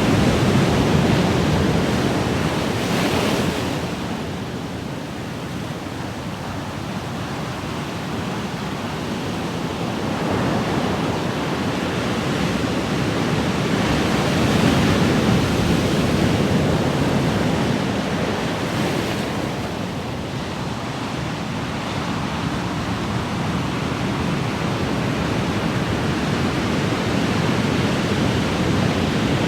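Ocean waves: a continuous rush of surf that swells and eases, building to a louder wash at the start and again about halfway through, each time falling away to a softer hiss.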